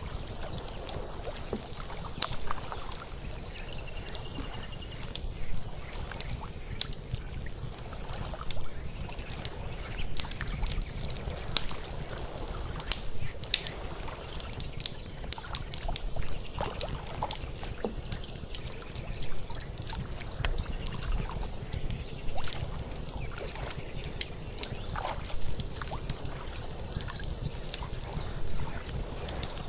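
Water lapping, with louder laps every few seconds, mixed with a crackling outdoor fire's many sharp pops.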